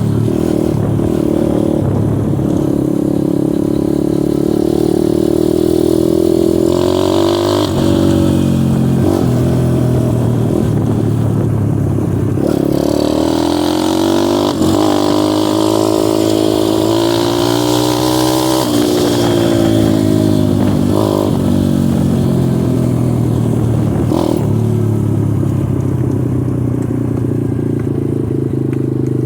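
Dirt bike engine running under throttle, its pitch rising and falling over and over as it speeds up and shifts gears.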